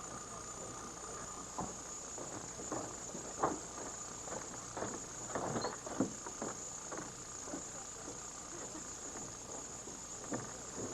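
Crickets trilling steadily in a high, unbroken chorus. Scattered soft knocks and rustles come and go through the middle.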